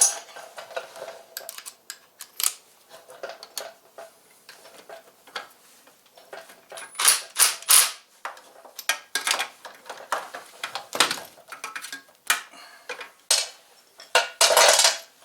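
Metal hand tools and small metal motorcycle parts clinking and clattering in irregular knocks, with louder clanks about seven seconds in and again near the end.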